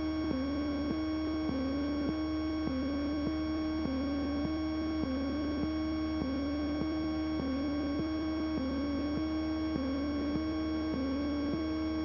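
Cessna 172N cockpit radio and intercom feed carrying a steady electrical hum and whine. A warbling tone steps up and down in pitch about every half second, typical of electrical noise on an older aircraft's audio system.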